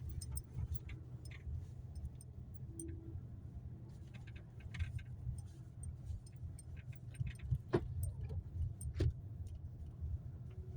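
Low, steady rumble inside a moving car's cabin, with light jingling rattles scattered throughout and two sharper clicks near the end.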